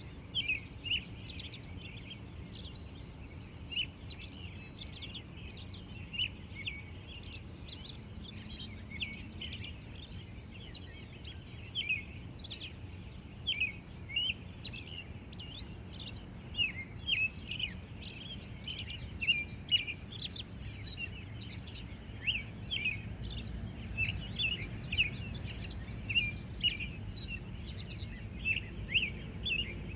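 Wild birds singing in the morning chorus: a steady stream of short chirps and twitters, over a low background rumble.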